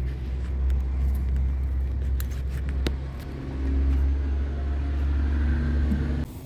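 A steady low rumble with scattered sharp clicks and taps, cutting off suddenly near the end.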